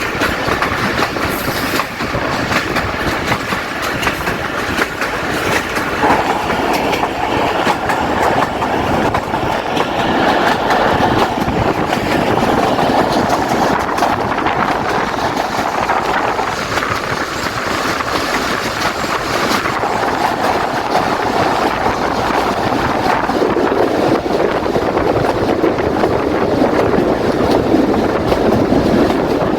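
Passenger train running at speed, heard from on board: a continuous loud rumble and clatter of the coach wheels on the track.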